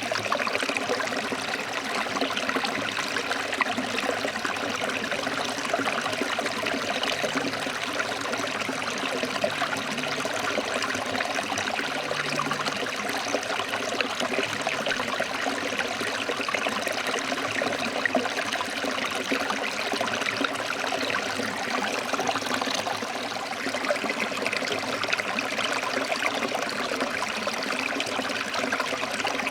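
Stream water flowing steadily over rocks, a continuous even rushing with a light trickle.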